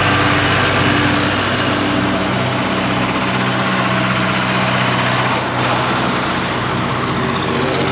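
Tractor engine running steadily with an even, level hum.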